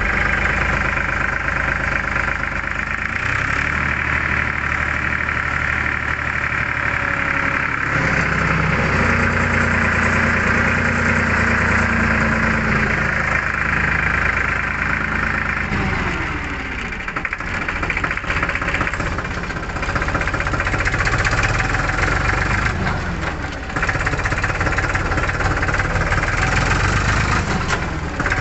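Powertrac Euro 50 Next tractor's diesel engine running, its speed shifting a few times; it drops off about halfway through, then picks up again.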